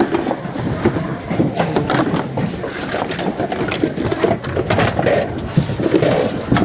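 Hard and plastic odds and ends clattering and rustling as hands rummage through a bin of mixed secondhand goods, a dense run of small irregular knocks, with indistinct crowd noise behind.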